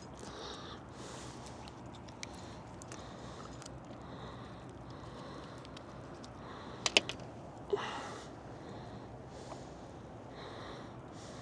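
A person breathing and sniffing close to the microphone, over a steady low background hum, with a pair of sharp clicks about seven seconds in.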